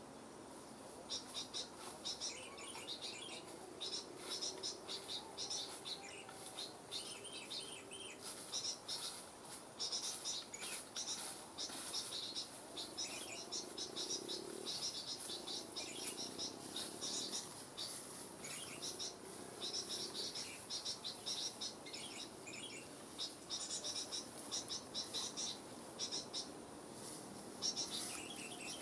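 Small birds chirping and twittering in quick, busy bursts of short high notes that keep going.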